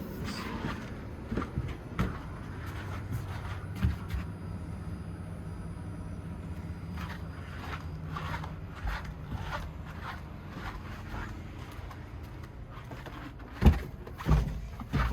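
A motor runs with a steady low hum, with scattered clicks and knocks over it and two loud thumps near the end.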